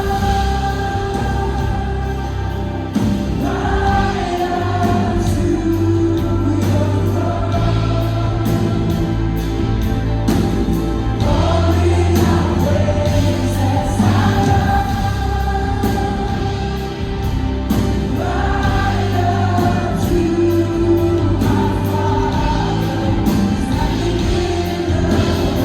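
Christian gospel music: a choir singing over a steady bass line, with light percussion ticks.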